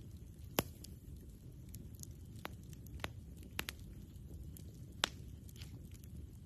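Wood campfire crackling: irregular sharp pops and snaps, the loudest about half a second in and again near five seconds in, over a steady low rumble.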